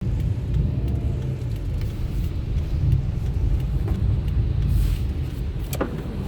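Car driving in the rain: a steady low rumble of the vehicle on the road, with scattered sharp ticks and one louder click near the end.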